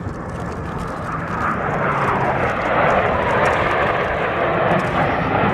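F/A-18 Hornet jet engines passing overhead: a broad jet roar that grows steadily louder.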